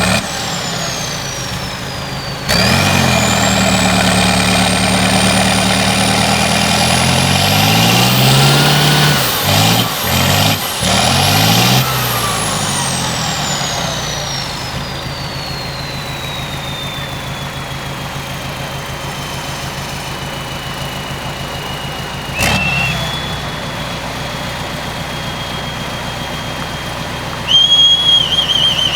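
Tatra 148 truck's diesel engine revving up and down several times under load, with a high whine rising and falling along with it, then settling back to a steadier low run. A short louder sound breaks in twice, about two-thirds of the way through and near the end.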